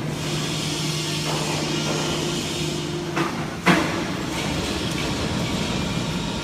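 Machinery running with a steady hum and noise, with two sharp knocks a little after three seconds in; the hum drops away after the first knock.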